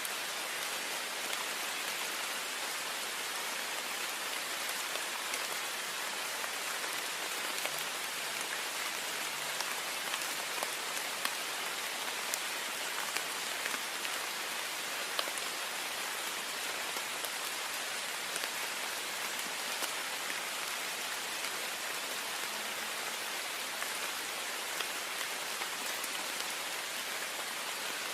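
Heavy rain falling in a steady, even hiss, with many small drop ticks scattered through it.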